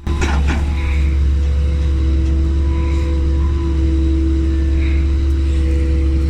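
Heavy machine's diesel engine running steadily under load, a low rumble with a steady hum.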